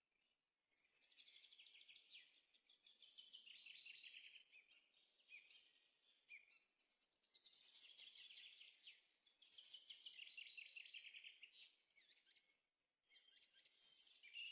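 Faint birdsong: a songbird singing phrases of rapid, high trilling notes, some falling in pitch, repeated four times with short pauses in between.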